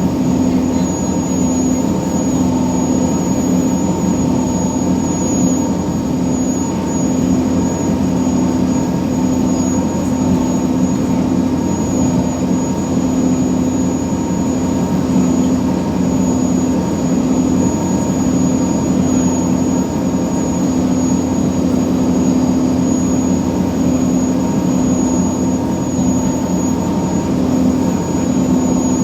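Scania diesel engine of a passenger ferry running steadily at constant speed, a loud unchanging drone with a strong steady hum.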